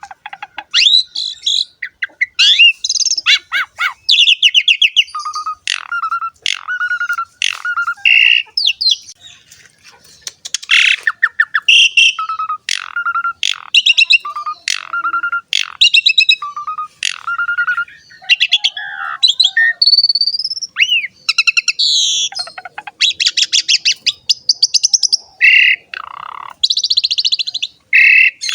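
Asian pied starling (jalak suren) in full song: a long, varied run of clear whistled notes mixed with harsh, raspy chattering phrases, broken by short pauses.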